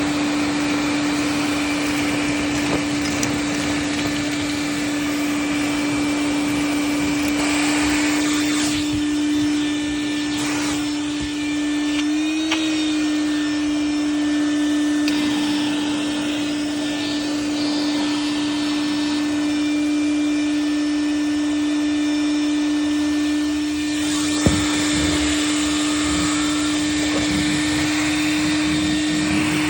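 Vacuum cleaner running steadily, its motor holding one constant hum under a rushing airflow hiss. The hiss brightens in stretches as it sucks up pieces of a cut-up phone case, with one sharp click about three quarters of the way through.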